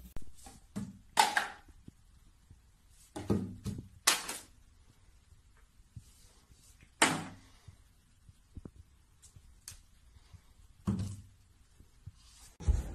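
A handful of separate hollow thunks and knocks at irregular intervals: a cat pawing plastic toiletry bottles so they tip over and roll on a bathroom shelf.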